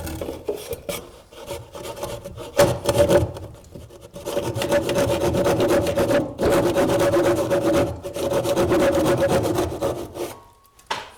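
Scraping and rubbing on wood, then a power saw cutting steadily through the wooden roof boarding for several seconds, breaking off briefly once and stopping near the end.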